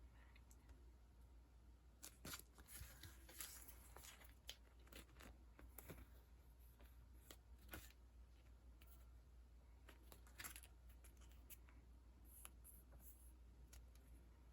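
Faint, scattered rustles and crinkly clicks of sticker sheets and their packaging being handled, with a few sharper crinkles spread through.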